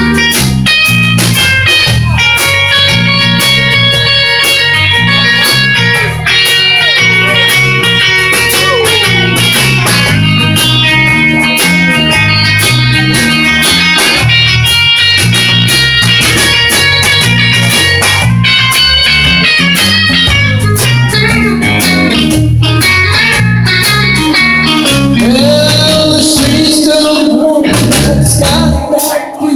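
Rock and roll band playing an instrumental break: electric guitar lead over a stepping bass line and steady drums.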